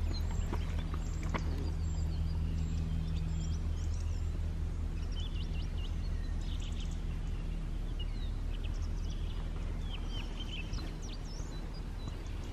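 Small birds chirping in short, scattered notes over a steady low hum of outdoor background noise.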